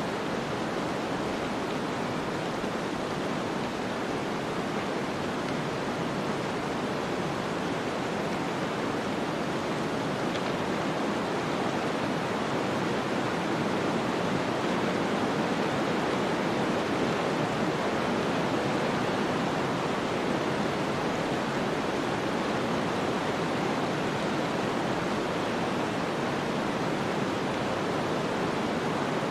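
Steady snowstorm ambience: an even, rushing wind noise with no distinct gusts, clicks or other events.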